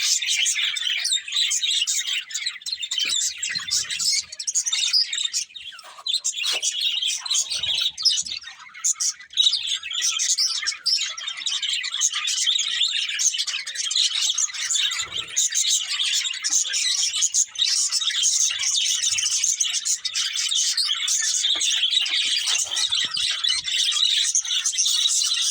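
Budgerigars chirping and chattering without a break, a dense run of quick high warbles and tweets, with a few faint low knocks from the birds moving about.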